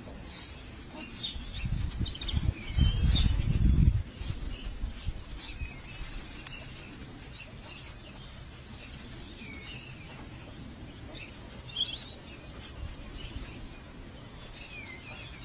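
Small birds chirping, short high calls scattered throughout. A loud low rumble runs from about one to four seconds in.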